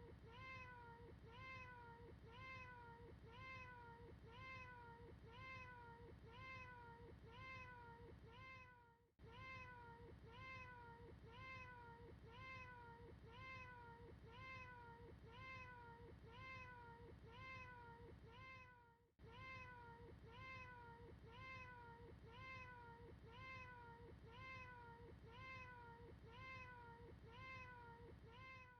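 Short cat meows repeated over and over in a fast, even loop, about two a second, each call rising and falling in pitch. The string breaks off for a moment about every ten seconds and starts again.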